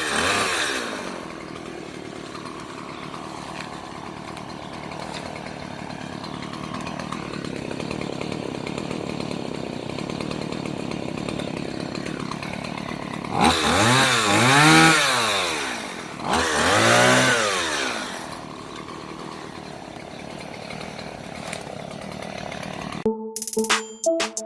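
Stihl MS 170 two-stroke chainsaw idling, revved up and back down twice near the middle as it cuts, then idling again. Music cuts in near the end.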